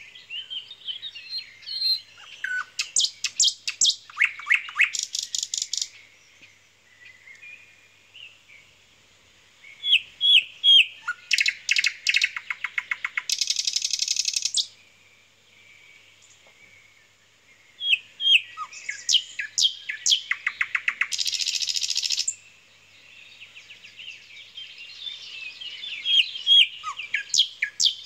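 A songbird singing phrases of quick trills and chirps, each a second or two long, with quieter pauses between them.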